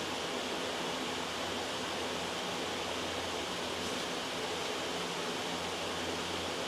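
Loud, steady white noise, an even hiss with a low hum under it, and one faint tick about four seconds in.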